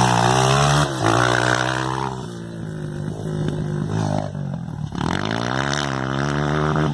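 Motocross bike engine revving as it is ridden. The pitch climbs, drops sharply about a second in and again about two seconds in, runs lower for a while, then climbs once more and falls away near the end.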